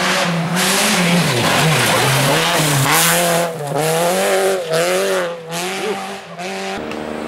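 Rally car engine revving hard and unevenly, its pitch rising and falling, with a loud hiss of spinning tyres as the stuck car tries to drive out.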